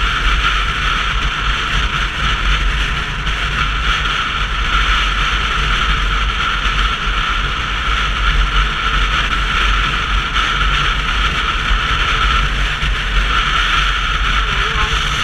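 Steady wind noise on the camera's microphone with road noise from a Sinnis Terrain 125cc motorcycle under way, dominated by a deep rumble.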